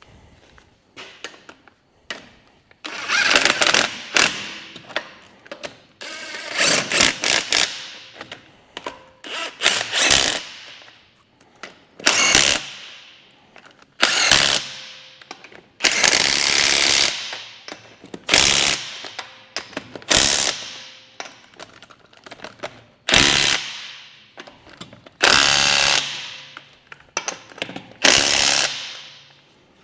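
Impact wrench run on the wheel nuts in repeated bursts of a second or two, about a dozen in all, each winding down: the front wheel being fastened back onto the hub.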